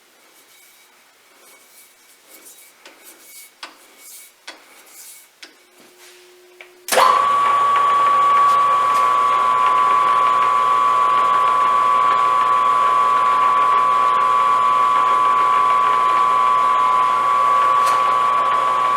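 Light clicks and handling knocks, then about seven seconds in a metal lathe is switched on and runs steadily with a high whine and gear noise, spinning a flywheel on its faceplate for a runout check.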